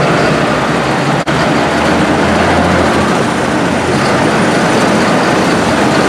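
Super stock pulling tractor engine running loud and steady at full throttle, with a brief break about a second in.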